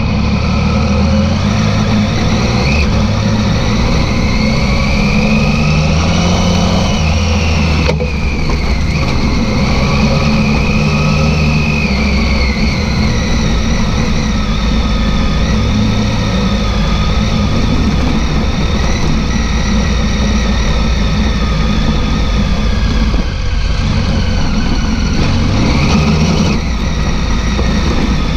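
Adventure motorcycle engine running as the bike rides along a dirt track, its pitch rising and falling with the throttle, with a brief dip about 25 seconds in.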